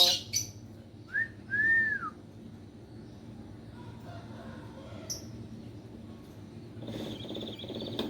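Hill myna whistling: a short rising note, then a longer arched note about a second in, followed near the end by a rougher, buzzy trill.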